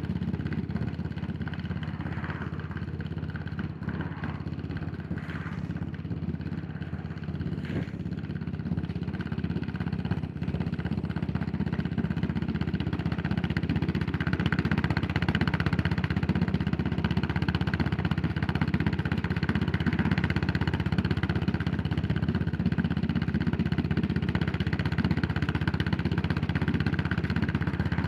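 Yamaha SR400's air-cooled single-cylinder four-stroke engine running steadily while the bike is ridden, growing louder from about halfway through.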